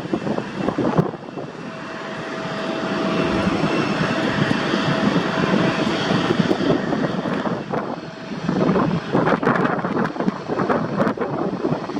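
Airliner engines running as an aircraft passes, a steady rushing noise that swells about three to six seconds in, with a thin steady whine running through it.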